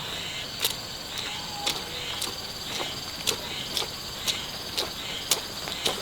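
Steady high chirring of insects, with sharp ticks about twice a second.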